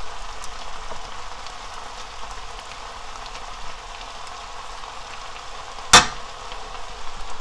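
Seasoned bracken fern (gosari) sizzling steadily as it stir-fries in a frying pan, with one sharp knock of a spoon against the pan about six seconds in.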